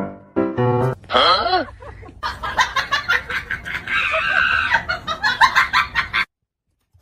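Chickens clucking and squawking in a busy, excited run of calls that cuts off suddenly about six seconds in.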